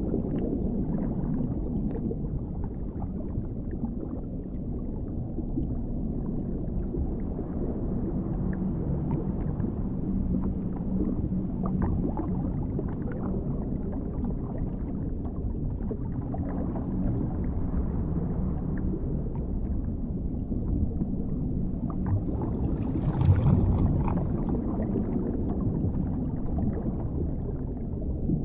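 Dark underwater ambience: a steady, muffled low rumble with gurgling, like being deep under water, with a brief louder swell late on.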